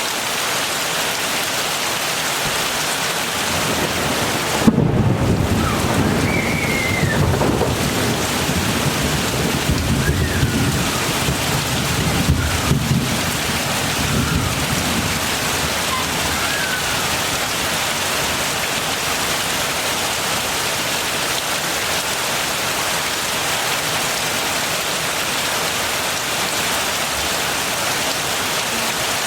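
Steady heavy rain, with a sudden clap of thunder about five seconds in, followed by rolling thunder that rumbles on and dies away after about ten seconds, leaving the rain alone.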